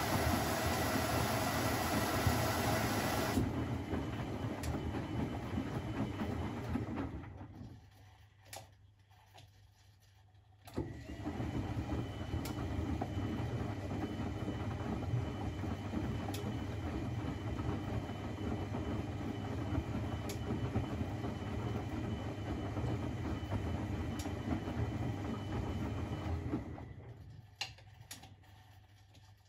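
Privileg 3001 S washing machine running: its motor and drum run steadily, stop for about three seconds, start again, and wind down near the end.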